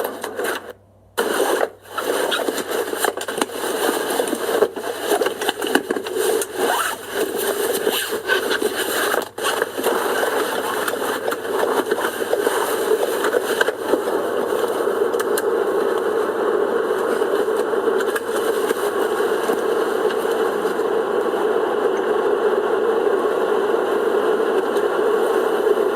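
Car heater fan blowing steadily inside a car's cabin, heard more than the engine. Irregular knocks and scrapes through the first half, settling into an even blowing sound.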